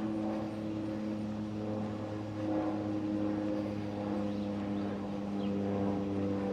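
A steady low mechanical drone, a motor or engine hum with several overtones, that shifts slightly in pitch about two and a half seconds in.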